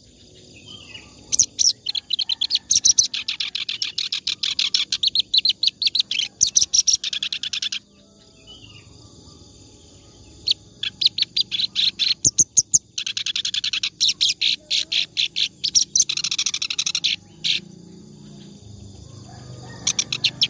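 A reed warbler (kerak basi) singing at length: long runs of fast, repeated scratchy notes lasting several seconds each, broken by short pauses.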